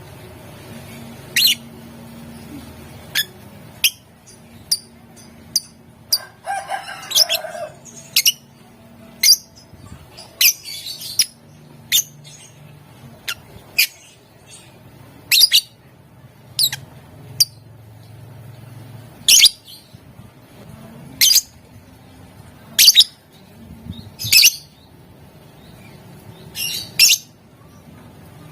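Lovebird giving short, shrill chirps about every one to two seconds, with a longer, rougher burst of chatter about six seconds in.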